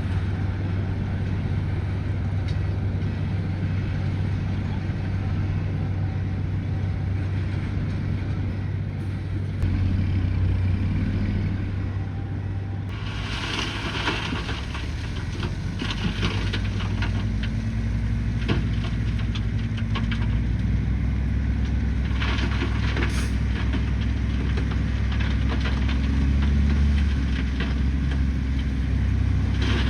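Bulldozer's heavy diesel engine running steadily under load, with bursts of clattering and scraping about halfway through and again near the end.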